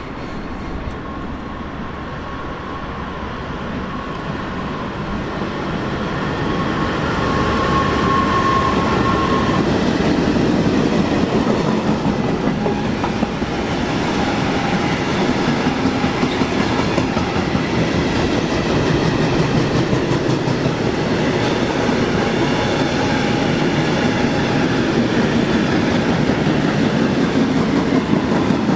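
A train approaching and running past, its wheels rolling on the rails. It grows louder over the first ten seconds or so, with a steady high whine during the approach, then runs on at a steady level.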